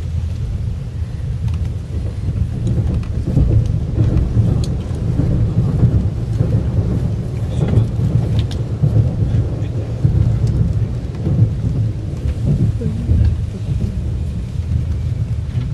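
Steady low rumble of a Sapsan high-speed train running at speed, heard from inside the carriage, with a few faint clicks.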